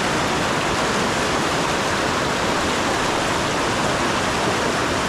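Fast river current rushing steadily around the wading angler, a dense, even rush of water with no break.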